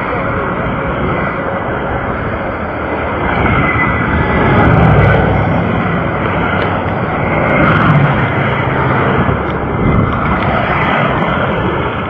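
Steady roar of vehicle noise, swelling about four seconds in and again near eight seconds.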